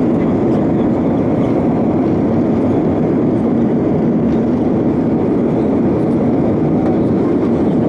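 Steady, loud rumbling noise from inside a moving vehicle, with no change in level throughout.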